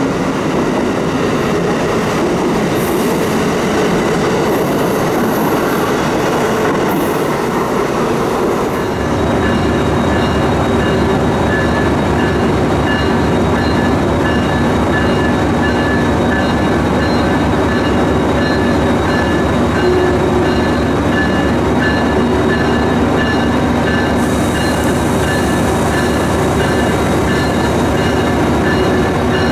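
An Amtrak train of Amfleet passenger cars rolling past at speed, a steady rush of wheels on rail. About nine seconds in it gives way to a MARC MP36PH-3C diesel locomotive idling, a steady low rumble with a steady high whine over it, while an Amtrak electric locomotive draws in; a high hiss joins near the end.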